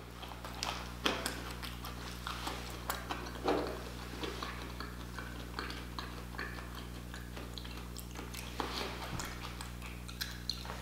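A person chewing a mouthful of Hot Cheeto-crusted fried octopus: irregular wet mouth clicks and chewing noises, with a few louder snaps.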